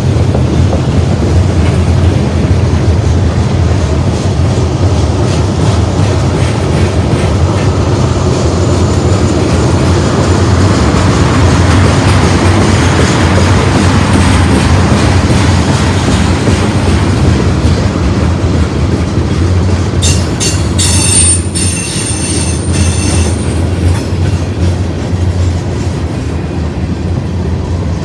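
Union Pacific manifest freight train rolling past, a steady loud rumble with the clatter of wheels over the rails. About two-thirds of the way through, high wheel squeal sounds for a few seconds.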